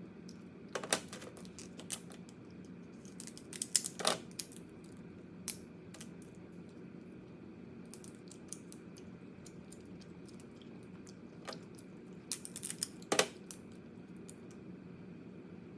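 Crab shell being bitten and cracked while eating: sharp cracks and crunches in short clusters, about a second in, around four seconds and near thirteen seconds, over a low steady hum.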